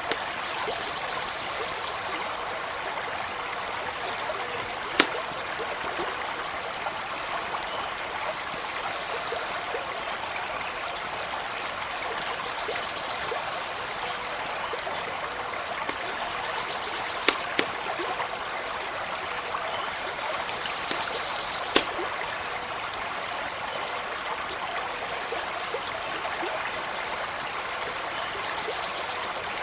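Small stream running and trickling steadily, with a few sharp pops from a crackling campfire, about four of them, two in quick succession midway.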